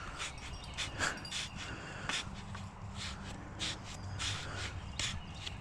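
A walking stick jabbing into wet ground and leaf litter to probe for a buried bone, making short, irregular crunches and rustles.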